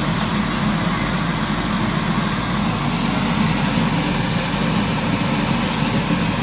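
Unbattered porgies frying in hot oil, a loud steady sizzle and crackle.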